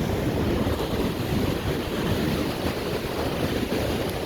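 Pacific Ocean surf washing onto the beach, a steady rush of breaking waves, with wind buffeting the microphone.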